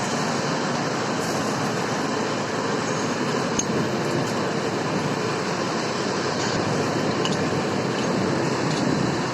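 Machinery running steadily with a continuous loud mechanical noise, with a few faint ticks through it.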